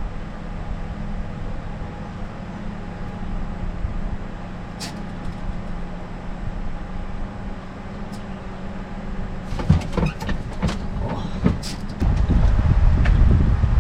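Boat motor running with a steady low hum. A cluster of sharp knocks and clatter comes near the end, then a louder low rush of wind and water.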